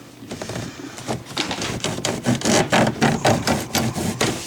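A saw cutting through plastic PEX water tubing in quick back-and-forth strokes, starting about a second in.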